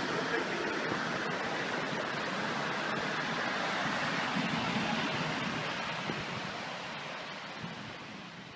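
Steady rushing of water, an even noise without tones, fading out over the last couple of seconds.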